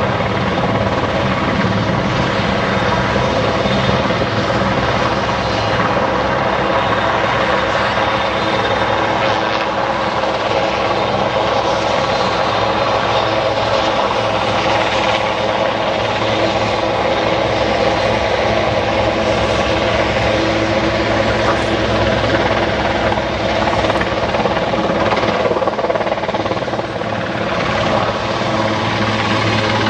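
Large turbine helicopter flying in a display, its rotor and turbine engines running with a steady, dense drone that holds an even level throughout.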